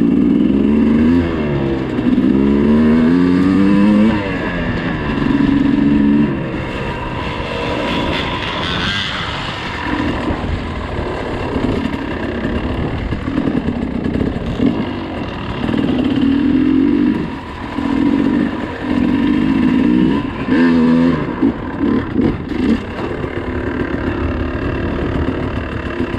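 Dirt bike engine revving hard on the trail. Its pitch climbs and falls repeatedly in the first few seconds, then it comes in short bursts of throttle on and off.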